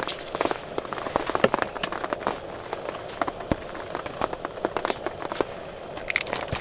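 Rain pattering on a surface, with many irregular sharp ticks of drops over a steady hiss.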